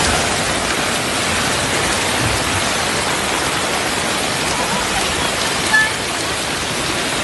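Heavy rain pouring down, a steady loud hiss of rain and running water. A brief high squeak cuts in once, about six seconds in.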